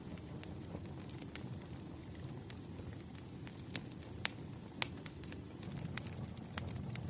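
Firewood burning: a low, steady rumble of flames with irregular sharp crackles and pops, the two loudest close together a little past the middle.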